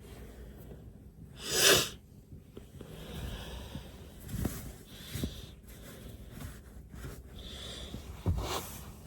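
A woman sneezes once, loudly, about a second and a half in. A few softer breaths and bumps follow.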